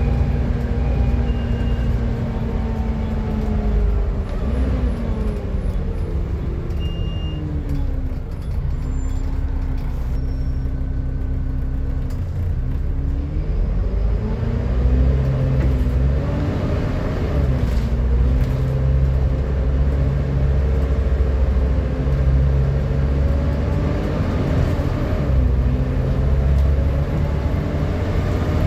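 Volvo B7TL double-decker bus running with its 7-litre Volvo D7C diesel engine, a low drone under a loud hoover-like whine. The whine falls and rises several times as the bus slows, pulls away and changes gear, holding steady in between.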